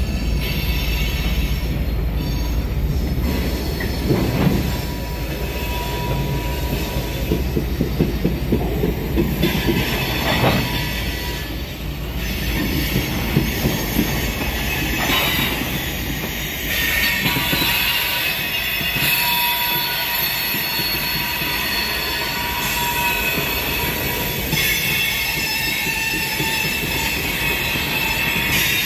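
A freight train's cars rolling past: steel wheels rumbling over the rails with a few knocks, and a high wheel squeal that comes and goes.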